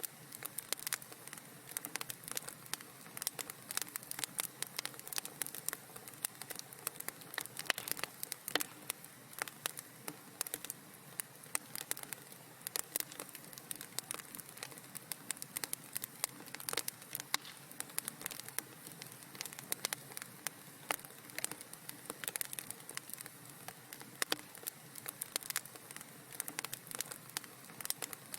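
Wood fire crackling in a fireplace: irregular sharp snaps and pops over a soft steady hiss.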